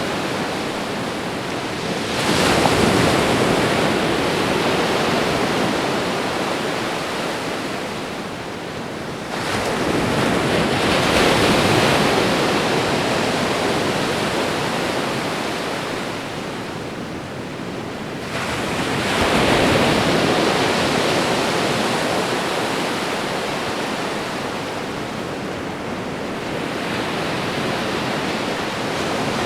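Ocean waves breaking and washing against the shore in a continuous rushing wash. Three larger waves surge in suddenly, several seconds apart, each ebbing away slowly, with a gentler one near the end.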